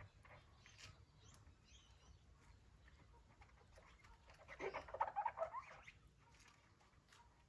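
Birds chirping faintly, with a louder burst of rapid chattering calls about halfway through that lasts a second or so.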